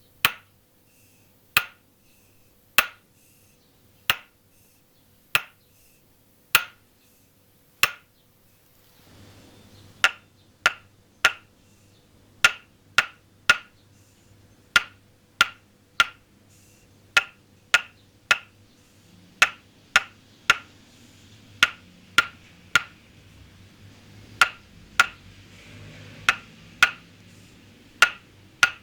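Toksen massage: a wooden mallet tapping a wooden peg held against the body, giving sharp wooden knocks. For about eight seconds the taps come slowly and evenly, about one every 1.3 seconds, then quicken into groups of three or four taps about half a second apart, over a faint background hiss.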